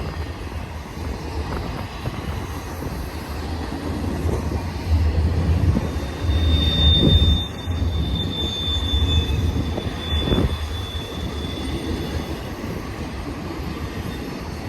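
BNSF intermodal freight train's spine cars rolling past: a steady low rumble of wheels on rail, with a thin, high wheel squeal through the middle and two knocks, about seven and ten seconds in.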